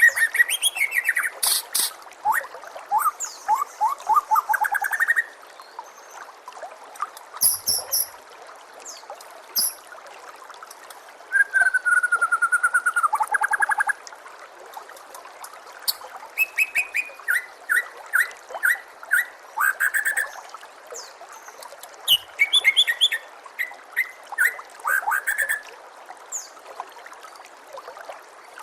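White-rumped shama (murai batu) singing in loud bursts of varied phrases: whistled slurs, quick runs of repeated notes, a fast trill about twelve seconds in, and very high rapid chips, with short pauses between bursts. A faint steady trickle of water runs underneath.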